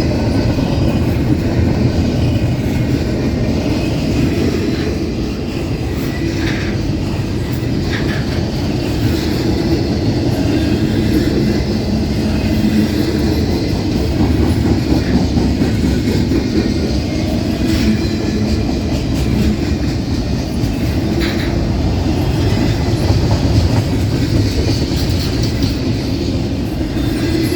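Long intermodal freight train's cars rolling past steadily: wheels rumbling and clacking over the rail joints, with a few brief sharp metallic clicks.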